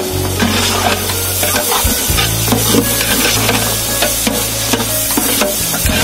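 Chopped onions sizzling as they fry in a large aluminium pot, stirred and scraped around with a long-handled ladle in repeated short strokes. A steady low hum runs underneath, dropping out briefly about two seconds in.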